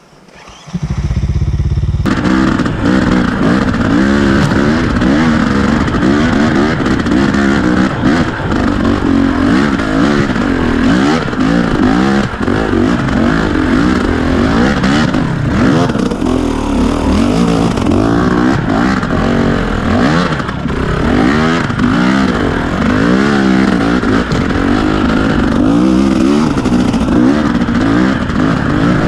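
KTM 250 EXC enduro motorcycle engine, heard from the rider's helmet, revving up and down constantly under load on a rocky trail, starting loud about two seconds in, with clatter from the bike over rough ground.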